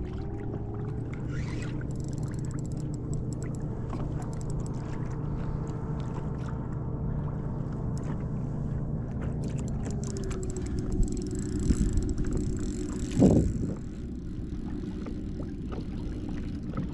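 A steady motor hum that shifts slightly in pitch about ten seconds in, with a few sharp knocks and one loud sudden thump or splash about thirteen seconds in.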